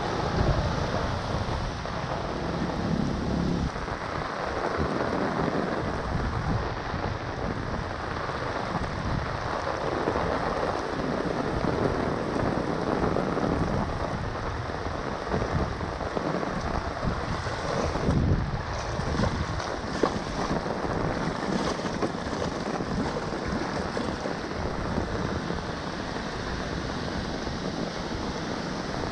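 Steady rain falling on wet pavement, with rainwater running into a curb drain grate that has just been cleared of leaves.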